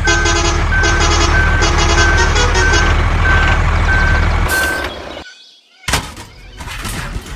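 Truck engine running with a reversing alarm beeping steadily, roughly three beeps every two seconds. Engine and beeping cut off suddenly after about four and a half seconds, followed by a brief silence and a few knocks.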